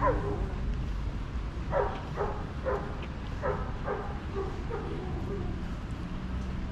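A dog barking, five short barks in quick succession a couple of seconds in, after a brief falling yelp at the start, over a steady low background rumble.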